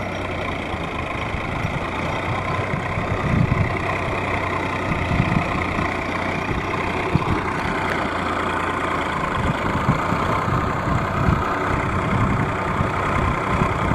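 Massey Ferguson 7250 DI tractor's diesel engine running steadily, with irregular low thumps.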